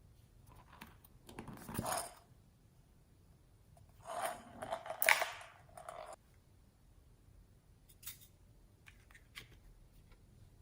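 Handling noises from mixing store-bought slime and add-ins: two short noisy scraping bursts, the second longer and louder, then a few light clicks.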